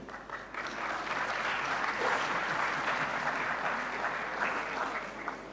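Audience applauding: many people clapping together, swelling within the first second, holding steady, then dying away near the end.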